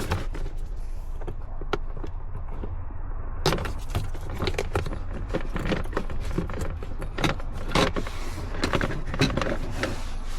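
Clicks, taps and light rattles of plastic clips and trim parts being worked loose and handled under a car's dashboard, over a steady low hum.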